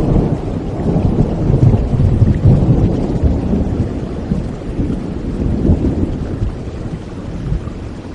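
Rolling thunder rumbling low over steady rain. It builds to its loudest about two seconds in and slowly dies away toward the end.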